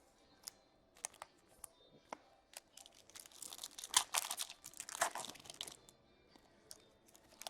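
Foil wrapper of a trading-card pack crinkling and tearing as it is opened, in a dense burst about three seconds in, with light clicks of cards and packaging being handled before and after.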